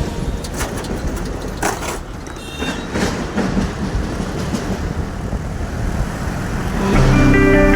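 Motorcycle engine and wind noise while riding, a dense low rumble with a few sharp knocks. Music comes in about seven seconds in.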